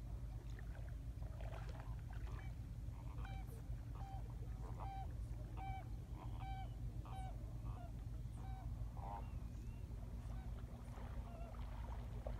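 Wind rumbling on the microphone, with a bird calling over it: a row of about eight short calls, each held on one steady pitch and about two-thirds of a second apart, then a wavering call near the end of the series.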